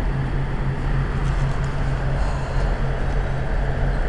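Steady low hum of a stationary electric suburban train heard inside the carriage, its onboard equipment running while it waits to depart.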